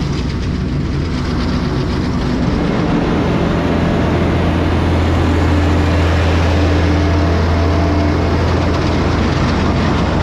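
Tractor-driven grain crimper and its tractor running steadily. A deep engine drone grows stronger about three seconds in.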